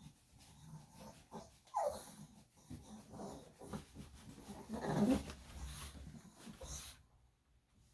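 Yorkshire Terrier vocalising in short whines and grumbles, with a falling whine about two seconds in and a louder grumble around five seconds.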